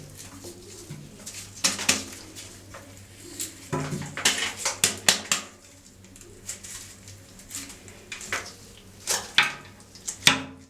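Irregular clicks, knocks and scraping from a horn being handled and cleaned, with clusters of sharp knocks about two seconds in, around four to five seconds in, and near the end.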